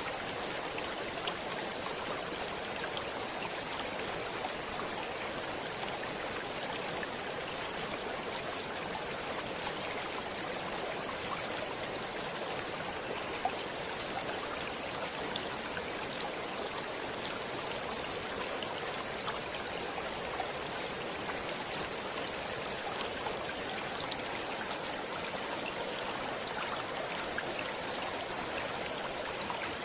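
Flowing stream water, a steady rushing with scattered small splashes and trickles.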